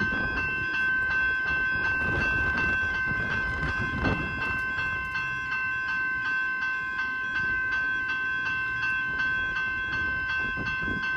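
Level crossing electronic bell ringing steadily, its two high tones held without a break, over a low rumble.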